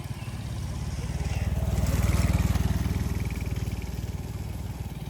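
Motorbike engine running with a fast, even pulse, growing louder to a peak about two seconds in and then fading.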